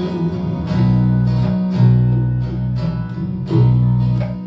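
Acoustic guitar playing a song accompaniment, strummed chords with low bass notes ringing under them and fresh chord strokes a few times.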